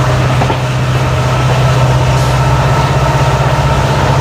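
WDP4D diesel locomotive's EMD 16-cylinder two-stroke engine running under load, a steady deep hum with a rhythmic throb and a few steady higher tones over it, heard from the hauled train.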